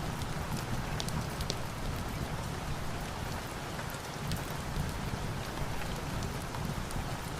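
Steady rain hiss mixed with a wood fire crackling, its sharp pops scattered a few times a second.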